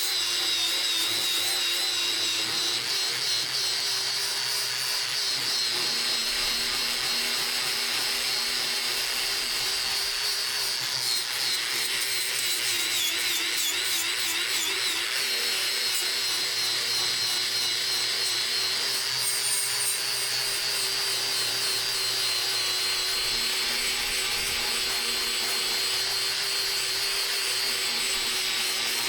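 An electric power tool running steadily and continuously, its motor pitch wavering slightly as it is loaded, with a strong hiss over it.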